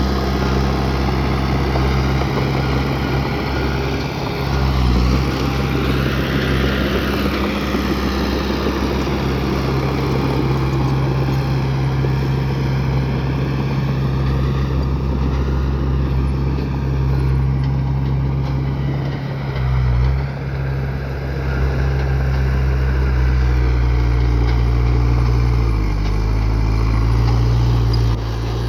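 A bulldozer's heavy diesel engine runs steadily under load. Its note dips briefly about five seconds in and again around twenty seconds, then revs up near the end.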